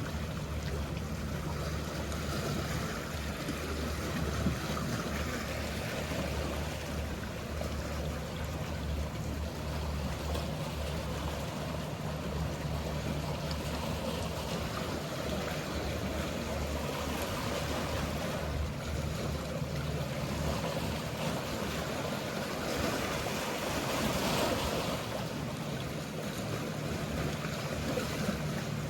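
Sea waves washing, with the low, steady hum of a boat engine underneath. The wash of the water swells about three-quarters of the way through while the hum briefly fades.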